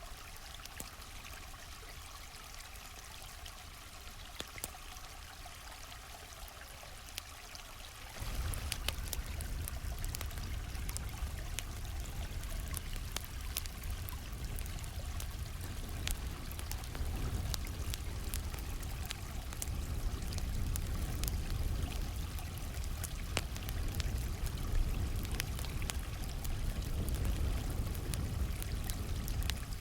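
Stream water flowing steadily while a campfire crackles, with scattered sharp pops. About eight seconds in, the water gets suddenly louder and deeper.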